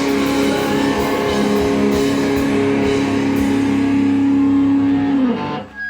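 Live rock band holding one sustained final chord on guitars, which is cut off sharply about five and a half seconds in.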